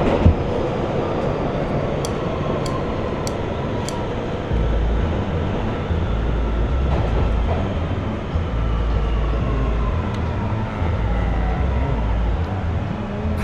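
New York City subway train running between stations, heard from the rider's position: a steady rumble of wheels on rail and a faint motor whine slowly falling in pitch. There are four sharp ticks about two to four seconds in, and a deeper rumble comes and goes through the second half.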